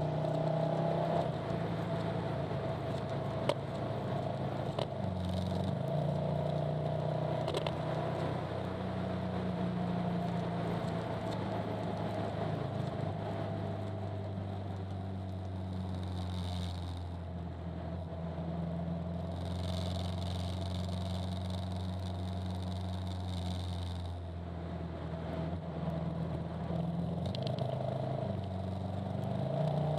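Honda NC700S DCT's parallel-twin engine running while riding, a steady drone whose pitch steps down and up a few times.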